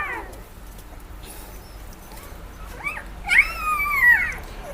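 A puppy crying in high, wavering cries. One cry trails off as the sound begins, a short rising one comes about three seconds in, and a longer one arches up and falls away near the end.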